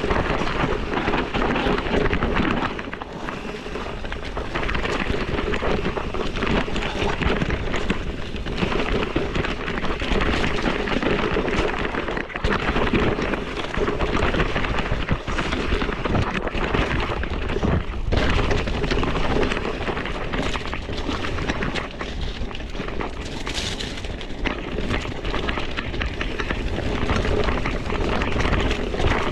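Mountain-bike tyres rolling over a rough dirt singletrack, with a steady crackle of grit and rattling from the bike and wind on the microphone.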